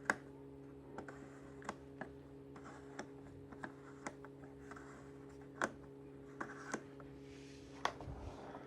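Scattered light clicks and taps of the Miele Blizzard CX1 vacuum cleaner's hard plastic handle and body being handled, irregular, about one or two a second, over a steady low hum.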